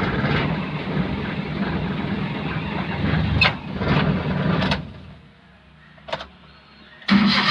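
Maruti Suzuki Omni's three-cylinder engine misfiring and vibrating hard, with a few sharp knocks, while held at full throttle without revving up, a symptom the mechanic traces to a blocked silencer. The engine cuts out about five seconds in; there is a click, then it starts again just before the end.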